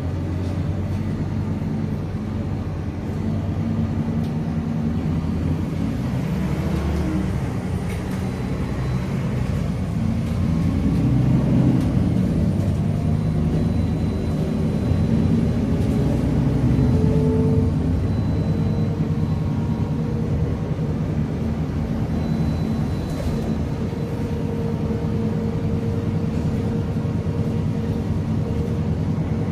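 Scania K310UA articulated bus's diesel engine running under load as the bus pulls away, its pitch rising twice as it picks up speed, then holding steady.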